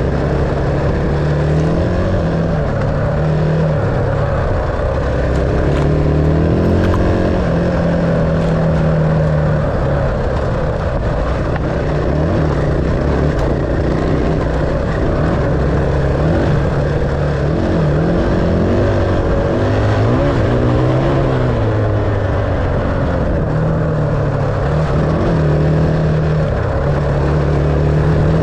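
Dirt bike engine running on the move, its revs rising and falling over and over as the throttle is worked.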